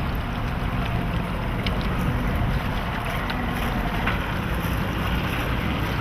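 Motorboat under way: the Volvo Penta 5.0 GL V8 sterndrive running steadily, with water rushing past the hull and wind buffeting the microphone.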